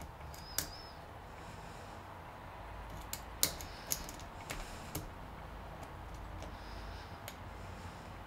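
Lock pick and tension wrench clicking in a Lockwood pin-tumbler padlock during single pin picking: a few sharp metallic clicks, most of them bunched between about three and five seconds in, as the pins are worked.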